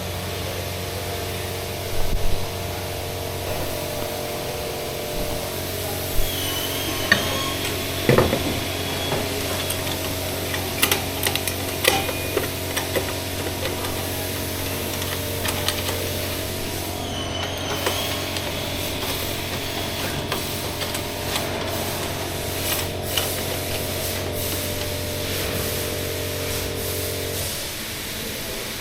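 Steady electric hum of a running machine, with scattered clicks and knocks; the hum cuts off shortly before the end.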